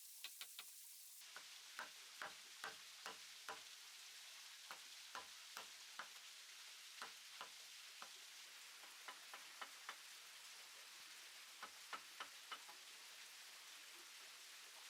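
Faint, sharp taps and ticks, irregular and in small clusters of a few a second, over a steady hiss.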